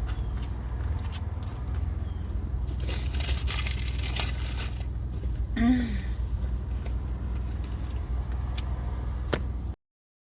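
Inside a moving car: steady low engine and road rumble, with a rush of louder road noise for a couple of seconds, a short vocal sound in the middle and a few light clicks. The audio cuts off suddenly near the end.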